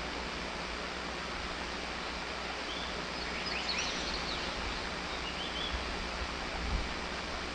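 Steady outdoor background hiss with a few faint, quick bird chirps about three seconds in and a short trill a little past five seconds.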